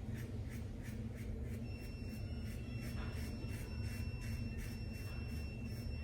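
Boar-bristle shaving brush working lather of a glycerin shaving soap, a steady run of short swishing strokes at about three a second over a low room hum.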